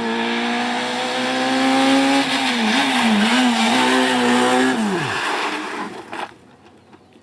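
Rally car engine at high revs, its note climbing steadily, then wavering up and down as the throttle is worked, then dropping sharply and fading about five seconds in. A few faint clicks follow in the quieter stretch.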